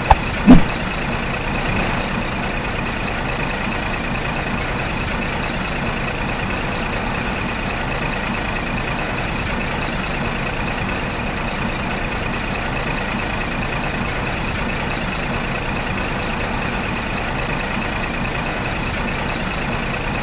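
A motor running steadily, a constant high-pitched whine over a rough hum, with a sharp knock about half a second in.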